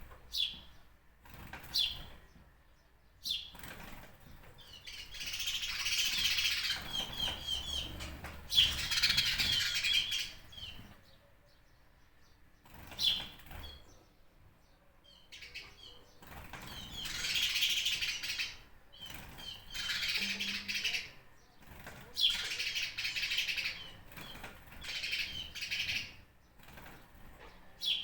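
Birds chirping and calling: short, sharp single chirps every second or two, between longer spells of busy twittering lasting a few seconds each.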